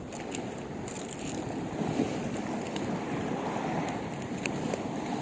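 Strong wind buffeting the microphone over the wash of water at the shore: an uneven, steady rumble with a few faint light clicks.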